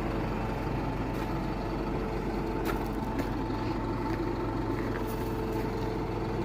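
Tow truck's engine running steadily, with a few light clicks or knocks over it.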